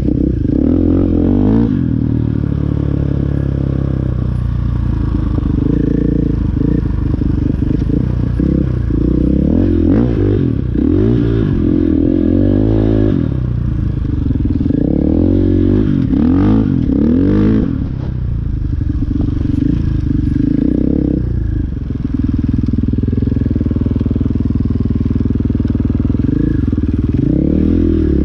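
Dirt bike engine running while being ridden, its revs rising and falling over and over as the throttle is worked.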